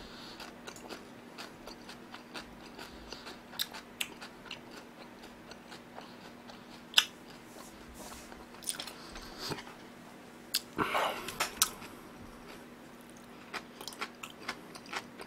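Close-miked chewing of a mouthful of fried fish cutlet, with scattered sharp crisp clicks and a louder, denser stretch of chewing about eleven seconds in.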